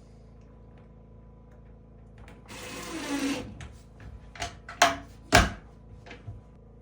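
A small power tool runs for about a second with its pitch falling, then a series of sharp knocks on wood, the two loudest close together near the end.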